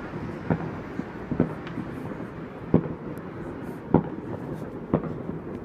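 Fireworks popping: about five sharp pops, roughly a second apart, with fainter pops in between.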